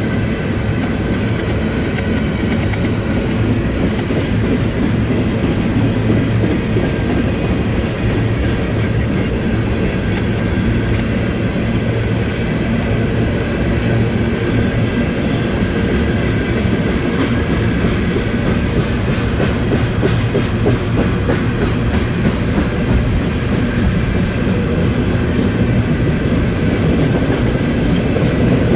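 Covered hopper cars of a grain train rolling past: a steady rumble of steel wheels on rail, with a run of quick clicks about two-thirds of the way through.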